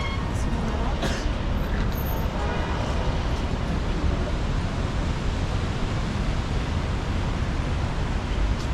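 Steady city street traffic noise: a continuous low rumble of passing vehicles under an even hiss, with one short click about a second in.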